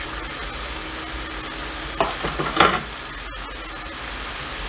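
Pork neck sizzling steadily as it grills, with a brief louder sound about two seconds in.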